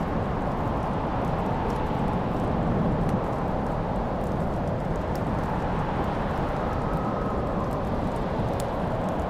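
Wood fire crackling in a fireplace, with scattered sharp pops and snaps over a steady low rushing noise.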